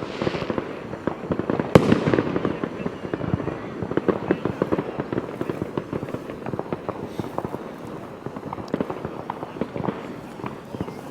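Fireworks going off in quick succession: continuous crackling and popping, with one sharp bang about two seconds in that trails off into a fading hiss.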